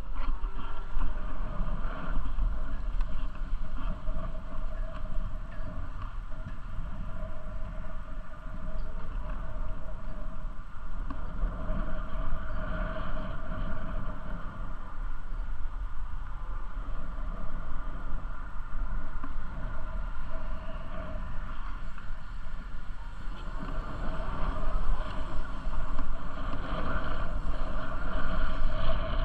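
Steady rolling noise of a bicycle ride, with a continuous low rumble of wind on the microphone.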